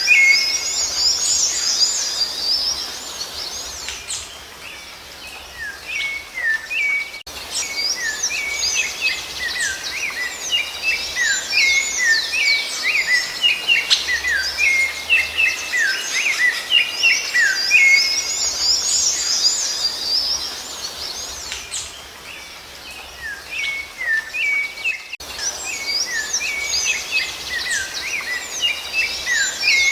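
Songbirds singing: a dense run of quick chirps and short descending whistles, easing into quieter lulls twice before picking up again.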